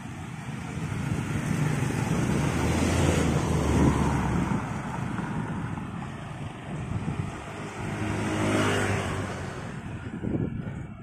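Motor vehicles passing on the road, the sound swelling and fading twice, over wind noise on the microphone.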